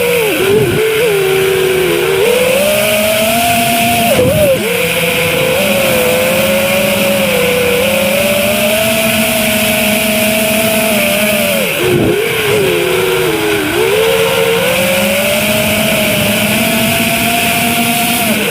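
FPV quadcopter's brushless motors and propellers whining in flight, the pitch mostly steady but dropping sharply and climbing back three times, about half a second in, about four seconds in and about twelve seconds in, as the throttle is cut and punched again.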